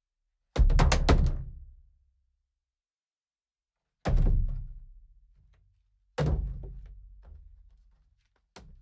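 Hard thuds against the rink boards and glass: a quick cluster of three or four hits about half a second in, then single heavy hits about four and six seconds in and a short one near the end, each followed by a low rattling rumble that dies away over about a second.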